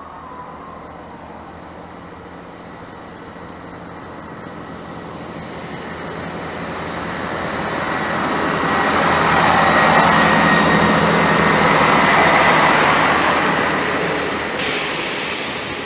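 Diesel multiple unit passing through the station: its engine and wheel noise build steadily as it approaches, are loudest as the carriages go by, and fade as it runs away.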